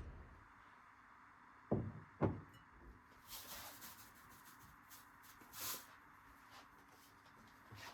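Two dull knocks about half a second apart, then soft rustling and light clicks of household objects being handled.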